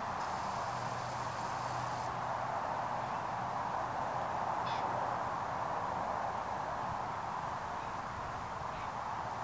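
Steady hiss of outdoor background noise with a few brief, faint bird calls, one about halfway through and another near the end.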